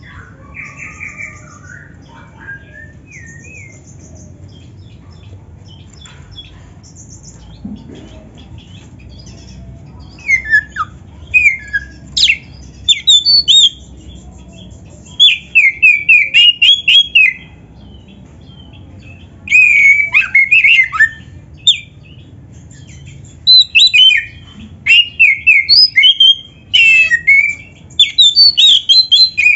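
Oriental magpie-robin (kacer) singing a varied song full of mimicked phrases. Faint, scattered calls for about ten seconds give way to loud bursts of rapid, sweeping whistled notes.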